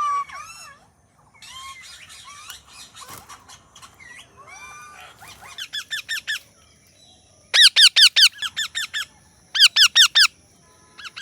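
Indian ringneck parakeet vocalising: soft warbling chatter with sliding notes, then three quick runs of loud, shrill repeated calls, about seven a second, in the second half.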